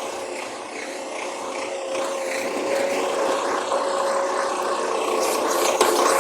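Recycling garbage truck running with a steady mechanical whine that slowly grows louder, and a few clicks near the end.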